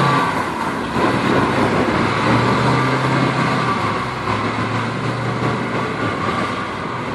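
Caterpillar water wagon's diesel engine running steadily just after start-up, a dense mechanical noise with a low hum underneath, easing off a little toward the end.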